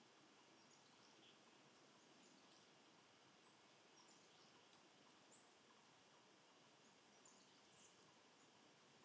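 Faint, scattered short bird chirps, high-pitched and a few a second, over a low steady hiss of near silence.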